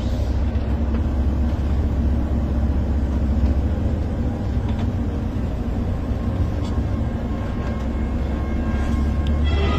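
Steady low rumble of a moving vehicle: engine and road noise that stays level throughout.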